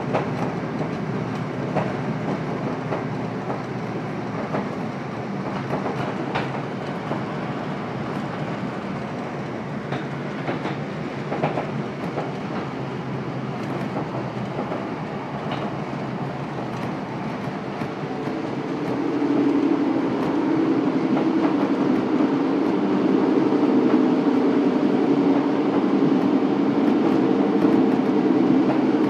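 A Class 150 Sprinter diesel multiple unit heard from inside at speed. A steady running noise has wheels clicking now and then over the rail, and about two-thirds of the way through it grows louder with a deeper drone.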